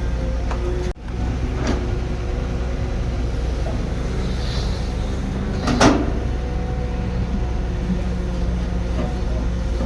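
Heavy construction machine's engine running steadily, with one loud metallic clank about six seconds in.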